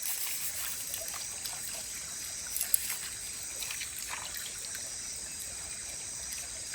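Water trickling and pouring over fried moong and chana dal as it is rinsed, with a few faint clicks.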